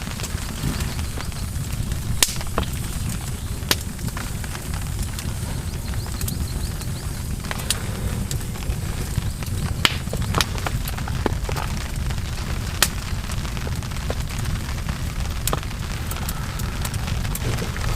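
Wood fire crackling, with sharp pops scattered irregularly, over a steady low rumble.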